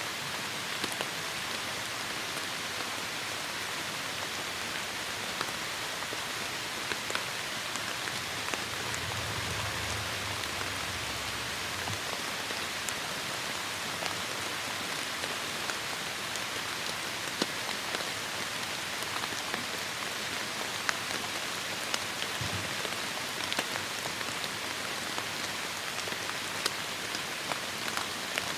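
Heavy rain falling steadily, with individual drops ticking sharply here and there. A low rumble rises under the rain about eight seconds in and fades some four seconds later.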